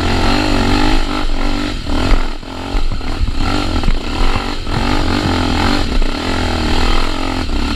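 Trail motorcycle engine revving up and down unevenly, its pitch wavering, with a short drop in revs about two seconds in.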